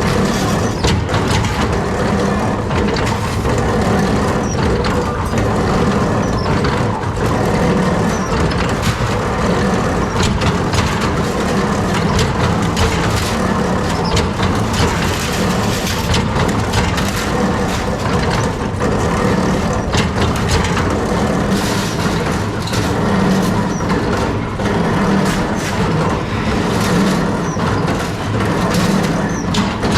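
Workshop machinery running steadily, with a low hum and frequent sharp metallic clicks and knocks of metalworking on kettle parts.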